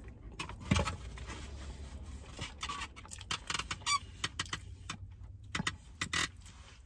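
A man biting into a sauced pulled pork sandwich and chewing, with scattered small clicks and rustles, the loudest about a second in. A low steady hum of the vehicle cabin runs underneath.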